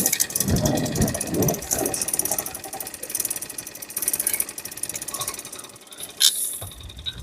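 Wind buffeting the microphone in irregular gusts over a boat motor running steadily, with one sharp click about six seconds in.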